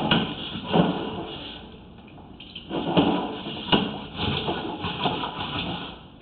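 Sewer inspection camera's push cable scraping and knocking as it is fed through a drain cleanout, in irregular bursts with quieter gaps, over a faint steady high whine.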